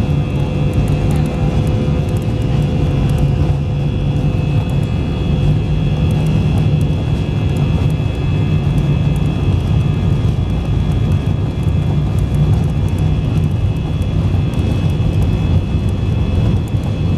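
Jet airliner heard from inside the cabin: a steady engine hum with faint high whines and light scattered rattles, as when the plane is on the ground at low power after landing.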